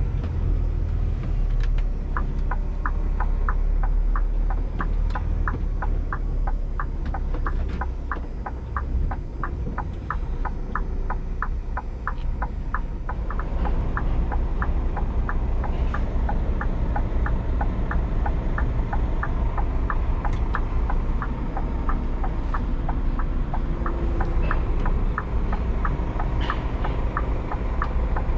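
Scania G410 truck's six-cylinder diesel running with a steady low rumble. From about two seconds in, an even ticking of two to three clicks a second comes in, the turn indicator.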